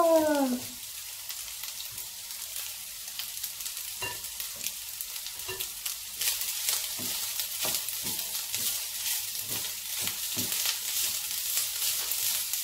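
Rice and diced vegetables sizzling in hot oil in a nonstick frying pan while a wooden spatula stirs and scrapes through them, the stirring strokes coming more often from about six seconds in.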